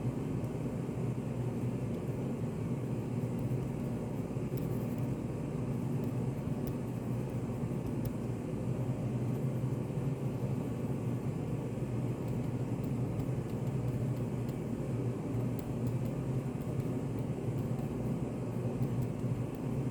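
Steady low rumbling room noise, a study café's white-noise ambience, even throughout, with a few faint clicks.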